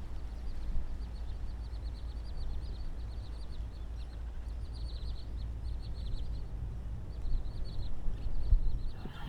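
A small bird calling in quick runs of short, high chirps, over a steady low rumble.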